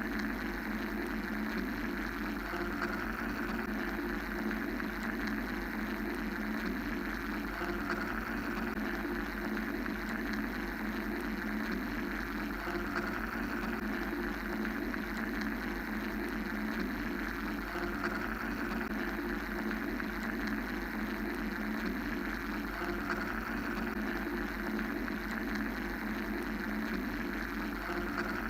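Steady mechanical white-noise drone: a low rumbling band with a hissing band above it that swells gently every few seconds.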